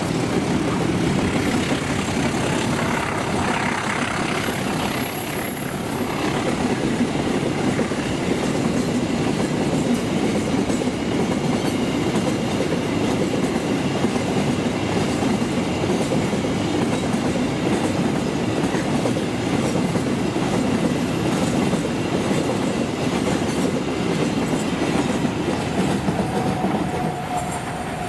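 A train rolling steadily past on the rails through a station, the sound of its cars and wheels holding level for the whole stretch.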